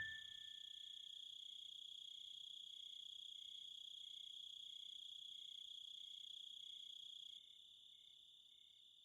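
Faint crickets chirping: a steady high trill with slower regular chirps about three every two seconds, dropping in level about seven seconds in and then fading away. A short ringing tone dies away at the very start.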